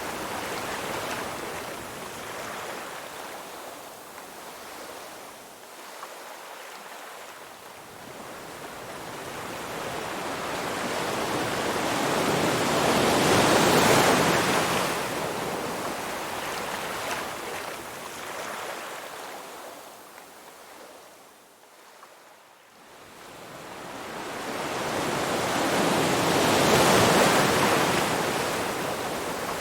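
Ocean waves breaking and washing in as a steady rush of surf. It swells to a peak about halfway through and again near the end, and drops to a lull in between.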